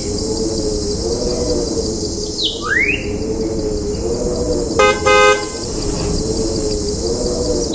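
Looped ambience bed of steady high insect-like chirring over a wavering low drone. A rising whistle-like glide comes about two and a half seconds in, then two short horn toots about five seconds in.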